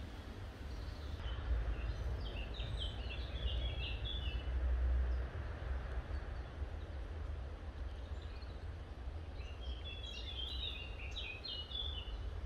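A songbird singing two short phrases of rapid, high chirps, the first a couple of seconds in and the second near the end, over a steady low outdoor rumble.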